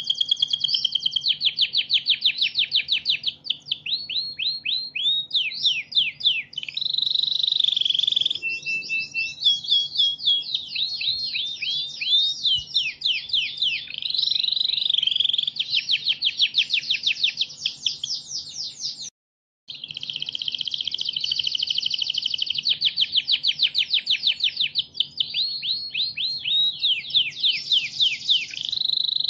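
Domestic canary singing a long, continuous song of fast trills and rolling phrases, broken off for an instant about two-thirds of the way through, over a faint steady hum.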